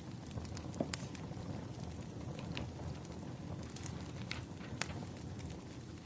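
Wood fire burning with a steady low rush and irregular sharp crackles and pops, a few louder snaps about a second in and near five seconds.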